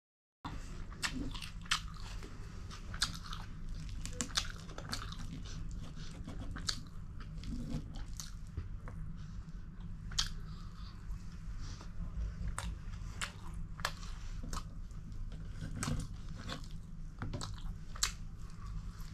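A person chewing and biting food, with many irregular crunchy bites and wet mouth clicks, over a steady low hum.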